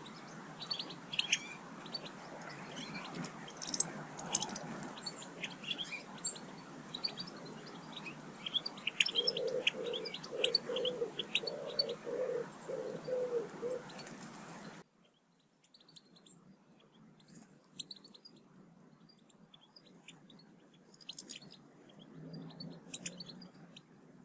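Small garden songbirds chirping in many short, high calls, with a woodpigeon cooing a run of low, evenly spaced notes for a few seconds in the middle. About two-thirds of the way through the background hiss cuts off abruptly and the chirps carry on fainter.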